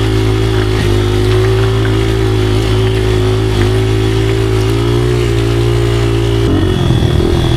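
Small motorcycle engine running under load in mud, holding a steady, laboring note. About six and a half seconds in, the note drops and turns rough.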